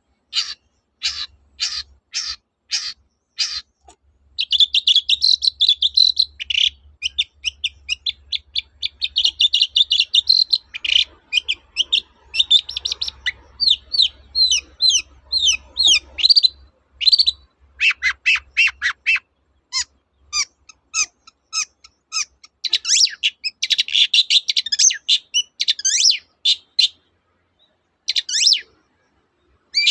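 Long-tailed shrike singing: a string of sharp, evenly spaced notes, about two or three a second, breaks after about four seconds into fast, dense chattering phrases, then varied separate notes and trills with short pauses.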